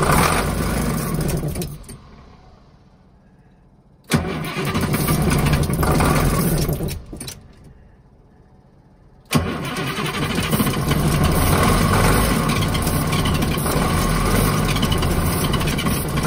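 Diesel engine of a Bluebird Wanderlodge FC coach being cranked by its starter in three tries. Each try begins with a sudden start, and the last runs on steadily. The no-start comes from a fault in the fuel solenoid.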